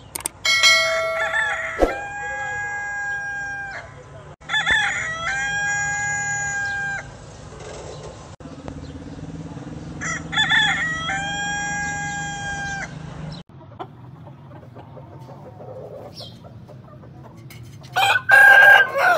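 Aseel roosters crowing: three long crows, each drawing out into a steady held note, followed near the end by a short loud burst of calling.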